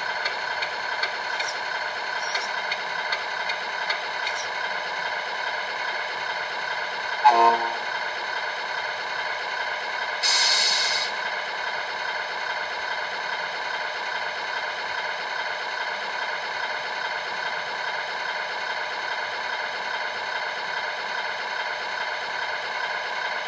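Electronic sound module of a 1/14 scale RC Scania R620 truck playing a steady simulated V8 diesel idle through its small speaker. A short horn toot sounds about seven seconds in, and a brief hiss a few seconds later.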